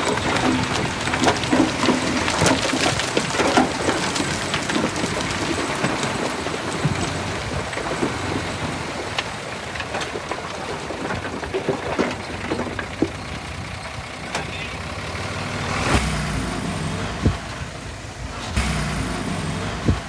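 Heavy construction machinery working: diesel engine noise with many clanks and knocks of metal, soil and stone. About 16 seconds in, the sound changes abruptly to a lower, heavier engine sound.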